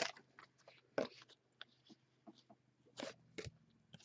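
A few faint, short handling noises of trading cards being sorted: sparse clicks and rustles about a second in, around three seconds in and just after four seconds, with near silence between.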